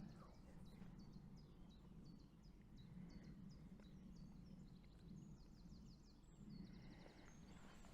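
Faint woodland birdsong: a small bird repeating short, high chirps, with a quick high trill about five seconds in, over a faint low background rumble.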